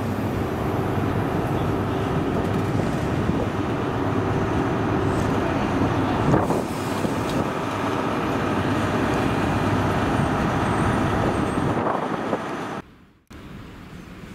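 GWR Intercity Express Train pulling out on its underfloor diesel engines, a loud steady engine hum with rail noise as the coaches pass close by. It cuts off abruptly near the end to much quieter background.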